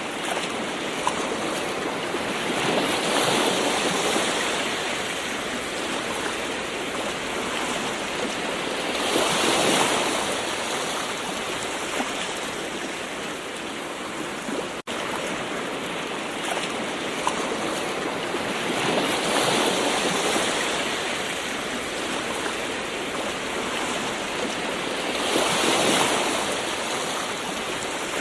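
Gentle ocean waves washing onto shore, a steady rushing hiss that swells as each wave breaks, about every six to eight seconds, with a brief dropout about fifteen seconds in.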